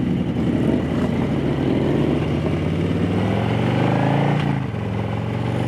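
Harley-Davidson Low Rider S Milwaukee-Eight V-twin pulling away under acceleration, its engine note rising in pitch, then dropping at a gear change about four and a half seconds in.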